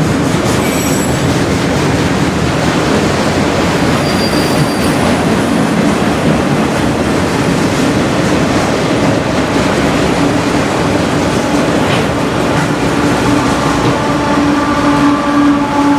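Railroad cars rolling past close by, a steady loud rumble and rattle of steel wheels on rail, with a steady wheel squeal rising in the last few seconds.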